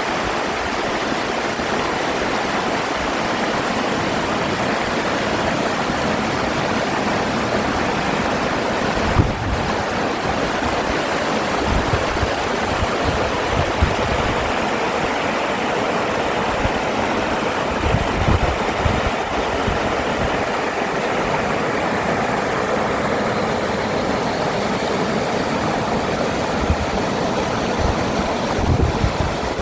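Mountain stream running, a steady rush of water with no let-up, with occasional low rumbles underneath.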